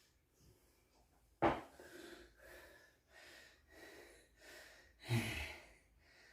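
A man breathing hard between deadlift sets: a sharp gasp about one and a half seconds in, a run of quicker, softer breaths, and another strong breath about five seconds in.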